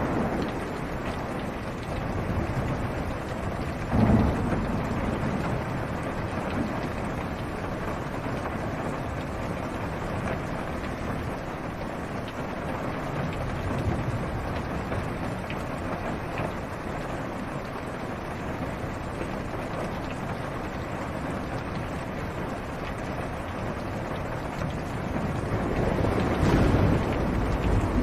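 Steady rain on a car's roof and windshield, heard from inside the car, with a rumble of thunder about four seconds in and a longer one near the end.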